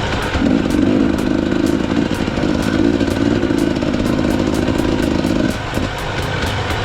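KTM 250 EXC two-stroke enduro motorcycle engine pulling under steady throttle, then dropping off sharply about five and a half seconds in as the throttle closes. Rattling clicks run throughout.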